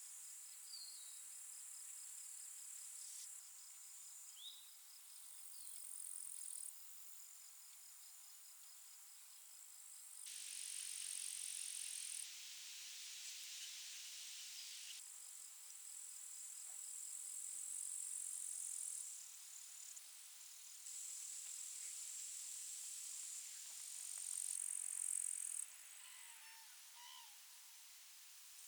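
Summer meadow insects, grasshoppers or bush-crickets, giving a steady, high-pitched chirring that changes abruptly every few seconds. A few short bird chirps sound faintly over it.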